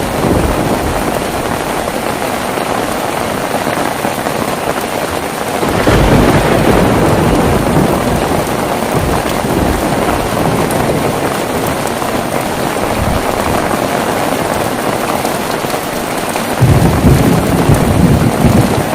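Heavy rain falling steadily, with a low roll of thunder about six seconds in and a louder one near the end.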